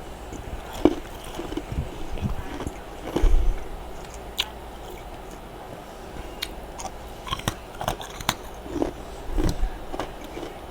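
Close-up chewing and biting of crunchy freezer frost: irregular crunches and crackles, with a louder burst of chewing about three seconds in.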